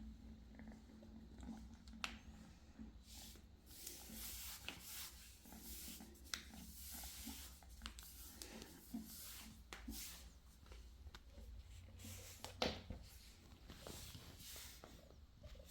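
British Shorthair kittens moving about and scratching, a faint rustling with scattered light clicks and taps, and one louder tap late on.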